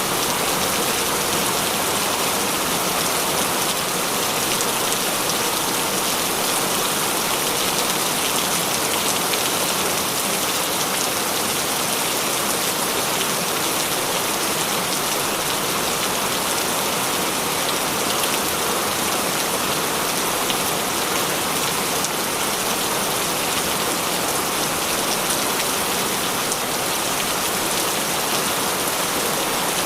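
Heavy rain falling steadily, a dense even hiss of drops with no breaks or thunder.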